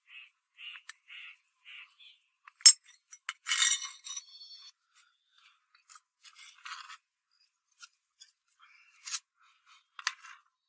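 Hand work on small metal parts: a run of short scraping strokes, about one every half second, followed by scattered clicks and clinks, with two sharp clicks standing out.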